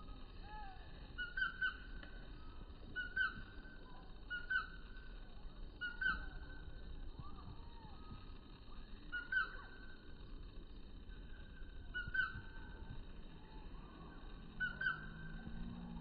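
A bird giving short calls, singly or in quick pairs, every one to three seconds, over faint outdoor background noise.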